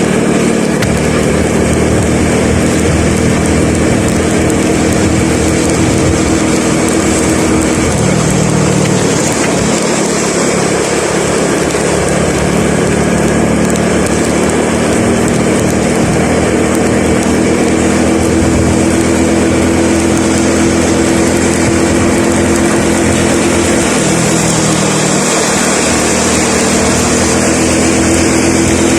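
A vehicle's engine running steadily with road noise while driving. The engine note shifts in pitch a few times, about eight seconds in and again near the end.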